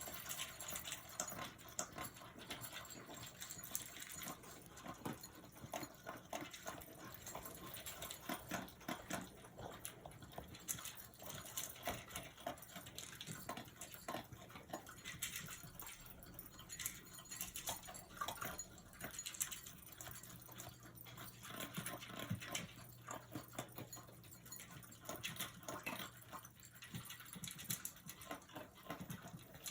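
Small dog eating dry kibble from a bowl: a steady run of quick crunches and clicks as he chews and noses the food.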